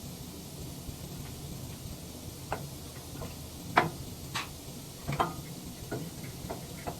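Irregular sharp clinks and taps of hand work on steel parts as a wood chipper's vertical anvil is fitted into its slot, about ten in all, the loudest nearly four seconds in, over a steady low hum.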